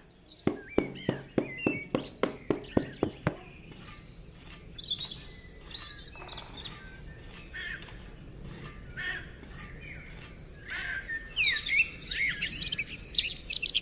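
Birds chirping and calling over a faint outdoor background, busier and louder near the end. During the first three seconds a regular clicking runs at about four clicks a second, then stops.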